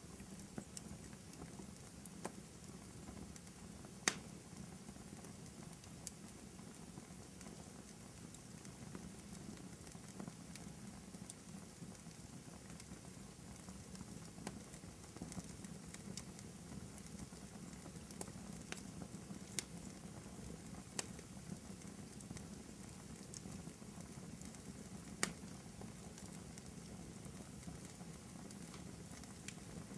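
Wood fire burning in a fireplace: a low steady sound of the flames with scattered sharp crackles and pops at irregular intervals, two of them louder than the rest.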